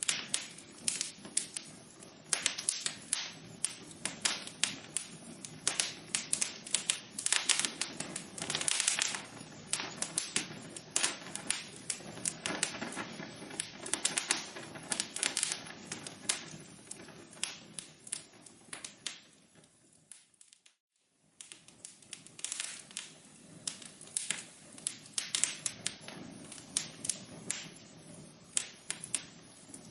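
Wood fire in a fireplace crackling, with dense irregular snaps and pops. About two-thirds of the way through it fades out to near silence for about a second, then the crackling starts again.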